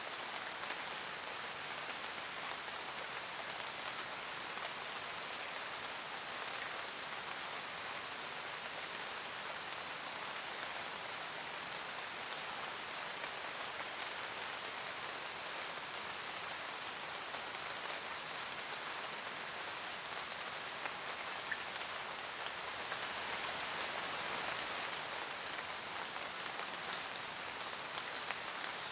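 Steady rain falling in a forest, a dense patter of raindrops on leaves, growing a little heavier for a few seconds past the middle.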